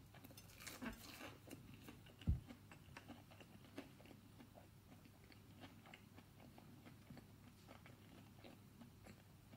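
Faint chewing of a mini fish cake: a soft crunch as it is bitten about a second in, then small wet mouth clicks. A single low thump about two seconds in.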